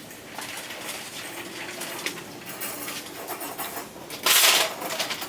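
Light clicks and clatter of items being handled, with one loud, short rattling burst about four seconds in.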